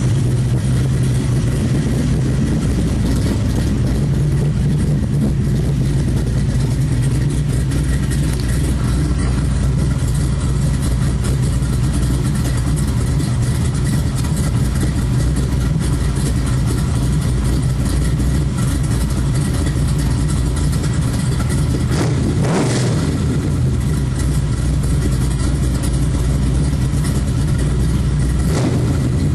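Chevrolet LT1 small-block V8 with LE2 heads, an aftermarket cam and intake, running through Flowmaster Super 40 mufflers, idling steadily with a low, even exhaust note. A short burst of sound breaks in about 22 seconds in and again near the end.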